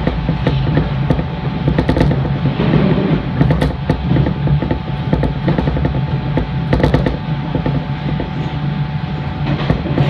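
JR East 583-series electric train running, heard from the lead car: a steady low rumble with a faint steady hum, and several sharp clacks as the wheels pass over rail joints.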